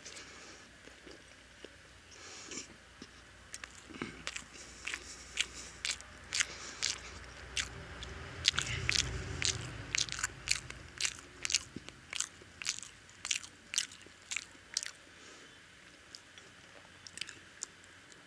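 A person biting and chewing egg toast with chicken curry close to the microphone. A run of sharp mouth clicks comes about two a second through the middle, quieter near the start and end.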